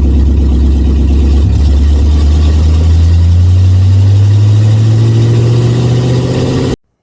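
Chevrolet 350 small-block V8 in a 1967 Bel Air running loudly through its exhaust, its pitch rising slowly over the last few seconds as the revs climb. The sound cuts off abruptly near the end.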